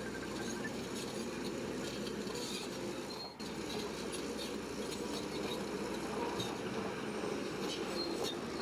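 Shantui crawler bulldozer working: a steady engine rumble with scattered short metallic squeaks and clinks from the running gear, dropping out briefly a little over three seconds in.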